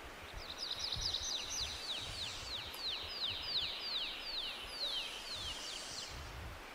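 A songbird singing a long series of high, down-slurred notes, about four a second, lasting some five and a half seconds, over a low wind rumble.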